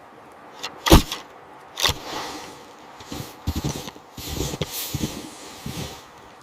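A few sharp knocks, the loudest about a second in, then a run of duller thumps in quick succession.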